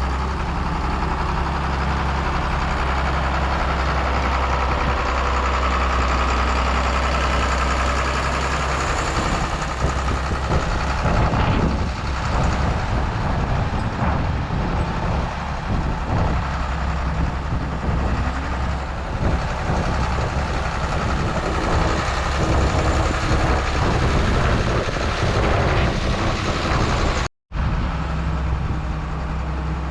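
Diesel engine of heavy farm machinery running steadily while working fill dirt, with a deep low hum. The sound breaks off for a split second near the end.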